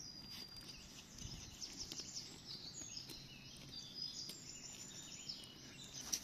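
Faint songbird song: a run of quick, high chirps and short sliding notes, over a low outdoor background hum.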